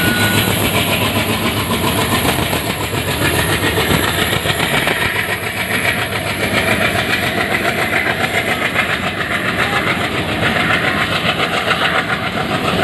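Train passing close by, a continuous loud rumble and clatter of its wheels running over the rails.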